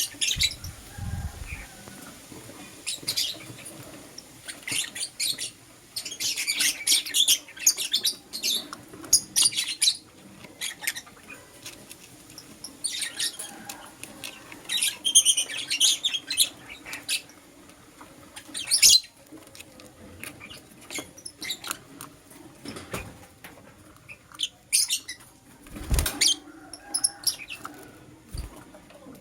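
Lovebirds chirping in quick bursts of short, sharp, high-pitched calls, with brief pauses between the bursts. A couple of soft low thumps come in, one about a second in and one near the end.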